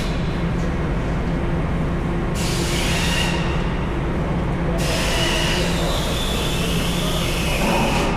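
Heavy machinery running steadily: a continuous low drone with faint high-pitched squealing tones coming in a little after the middle.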